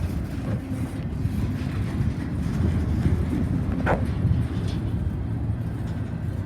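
Freight train rumbling steadily, with one short, sharp squeak about four seconds in.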